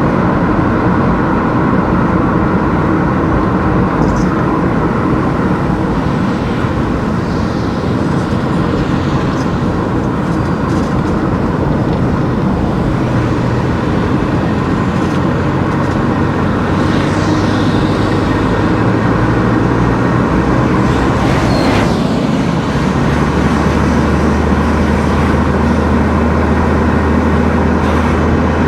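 Car driving along a road: steady engine and tyre noise with a low drone, which changes pitch about two-thirds of the way through.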